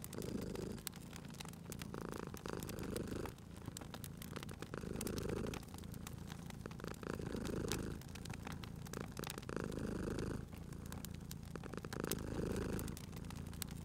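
Domestic cat purring, swelling and easing with each breath about every two seconds, over the small crackles and pops of a wood fire.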